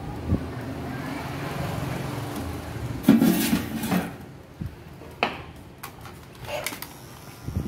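Hard objects being handled and set down: scattered knocks and clicks, with a louder clatter about three seconds in.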